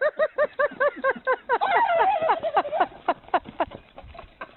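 A bird calling in a rapid series of short, pitched notes, about five a second, with a longer held note in the middle; the calls grow quicker and fainter and die away near the end.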